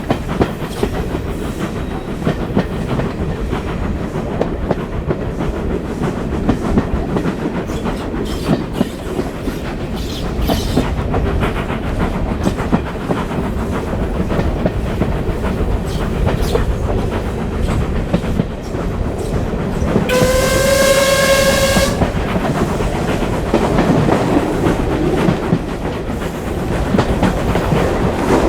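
Steam train running along the line, with steady rumble and wheel clatter on the rails. About twenty seconds in, Caledonian Railway 0-4-4T tank locomotive No. 419 sounds its steam whistle once, a single steady tone lasting about two seconds.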